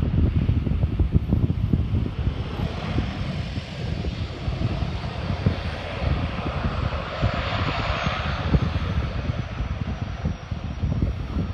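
Small propeller commuter plane passing close by, its engine sound swelling to a peak about seven to eight seconds in and then fading, with a faint high whine falling slowly in pitch. Heavy wind buffets the microphone throughout.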